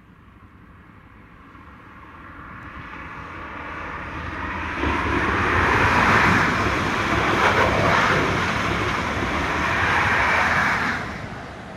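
High Speed Train with Class 43 diesel power cars approaching and passing at speed. A faint whine rises as it closes in, then a loud rush of wheels on rail as the Mk3 coaches go by, dropping away sharply near the end as the rear power car passes.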